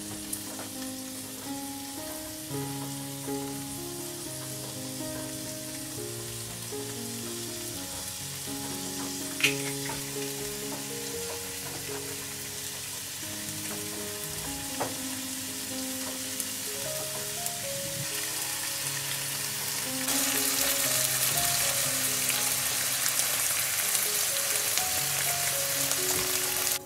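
Sausage rings with chopped mushrooms and eggs frying in an oiled pan: a steady sizzle that grows noticeably louder about three-quarters of the way through, with a single sharp click near the middle.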